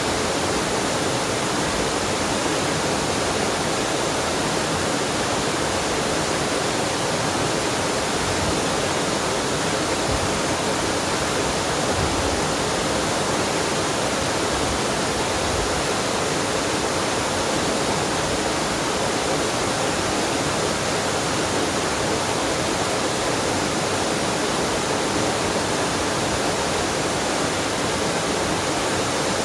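A waterfall and mountain stream rushing steadily, a continuous even roar of falling and running water with no breaks.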